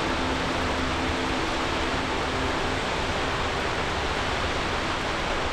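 Steady roar of a large waterfall with its spray, an even rushing noise that doesn't change. Faint background music fades out in the first couple of seconds.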